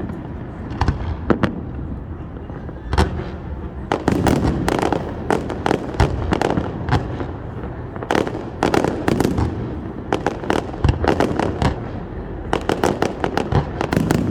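Fireworks going off: a string of sharp bangs with dense runs of rapid crackling pops, over a continuous rumble of more distant bursts.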